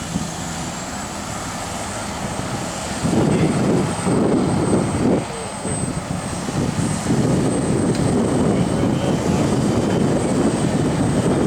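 Hydrema 912HM water truck's engine running with a steady roar that swells sharply louder about three seconds in, eases briefly in the middle, then holds strong.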